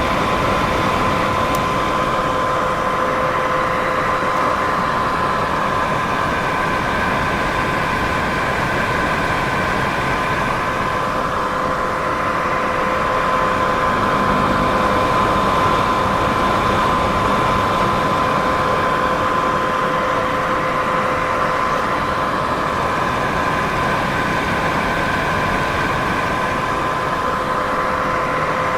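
Steady white noise for sleep, an even hiss that does not change, with a faint constant high tone running through it.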